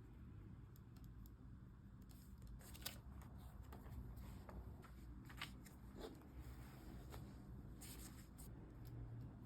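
Faint handling of paper and stationery: scattered soft rustles and clicks over a low room hum.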